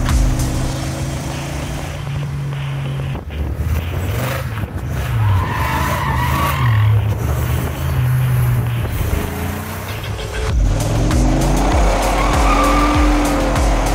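1994 Dodge Viper's 8.0-litre V10 engine running under a driver's throttle, its pitch rising and falling in steps, then climbing steadily over the last few seconds as it revs up.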